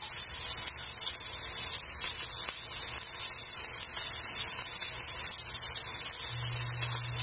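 Cauliflower frying in a pan, a steady sizzle. A low steady hum starts near the end.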